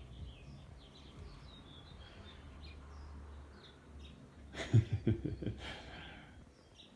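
Small bird chirping faintly in short, scattered chirps. A brief cluster of louder noises comes about four and a half seconds in.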